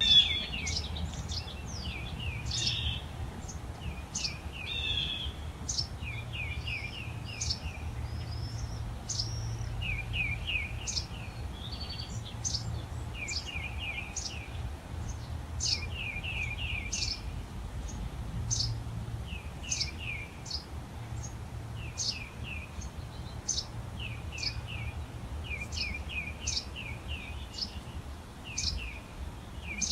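Songbirds chirping: short trills of quick falling notes repeat every second or two, with sharp high single chirps between them, over a steady low rumble.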